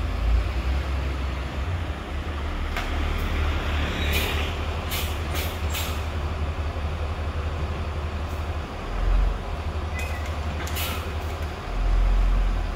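Bus diesel engine running with a steady low rumble, with several short hisses of air typical of air brakes, and a low rumble that swells twice near the end.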